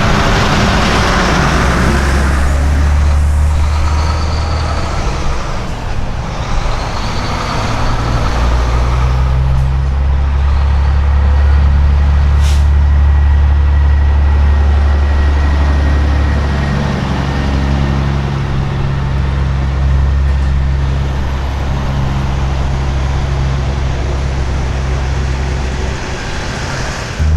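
Heavy diesel semi-truck engines running as trucks roll past: a deep, steady drone whose pitch steps up and down a few times. A brief sharp hiss comes about halfway through.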